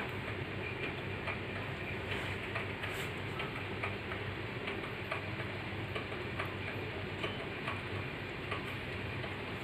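Steady low hum with faint, irregular ticks and clicks over it.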